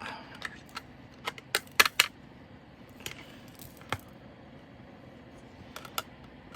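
Scattered sharp clicks and light rattles of small plastic diamond-painting drills and their containers being handled, with a quick cluster of clicks between one and two seconds in and a few single clicks after.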